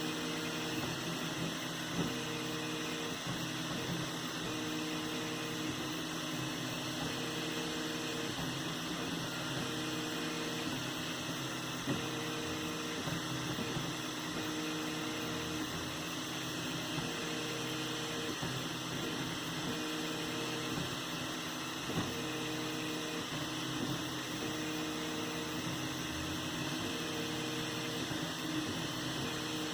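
3D printer running: a steady fan hiss and hum, with short pitched motor whines that come and go about once a second as the print head moves.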